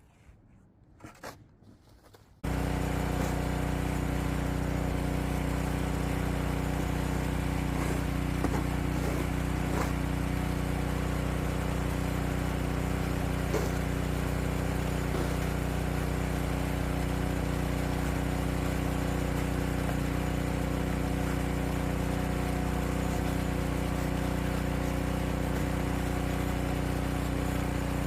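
An engine running steadily at a constant speed, cutting in suddenly a couple of seconds in after near silence with a few faint clicks.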